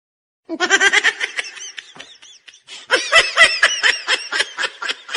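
High-pitched laughter sound effect: rapid giggling pulses start about half a second in, fade briefly near the middle, then come back louder.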